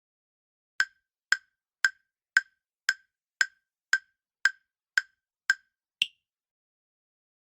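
Quiz countdown timer ticking: ten sharp, even ticks about two a second, then an eleventh, higher-pitched tick that ends the count.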